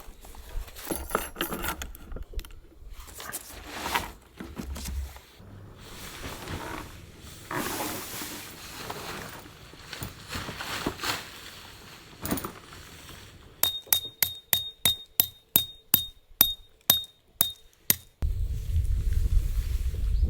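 Clinking and rustling of gear being handled, then a run of sharp even clicks about three a second for a few seconds, then a steady low rumble.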